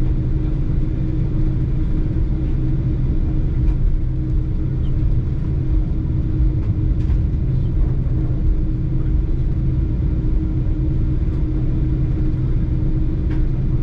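Boeing 747-8 jet engines running steadily: a constant low rumble with a steady hum that neither rises nor falls.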